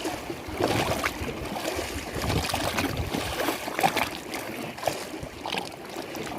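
Lake water lapping and sloshing in small, irregular splashes, one surge after another without a steady rhythm.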